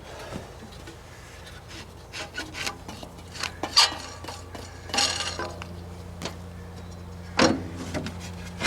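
Irregular scraping, rubbing and knocks, several short ones in quick succession and then two longer scrapes, from hands and body shifting around a riding mower while reaching under it; a faint steady low hum runs underneath.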